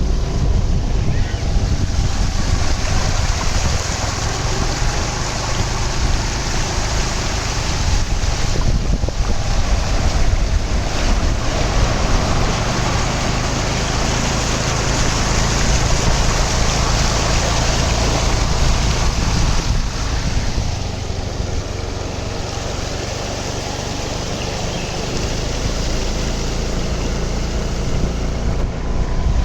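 Steady wind rush buffeting the microphone of a moving motorbike, with the low rumble of the bike's engine underneath.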